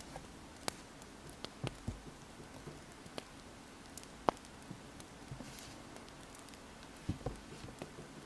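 Wood fire crackling, with sharp pops at irregular intervals over a steady low hiss; the loudest pop comes a little past four seconds in. A brief pen scratch on paper comes about five and a half seconds in.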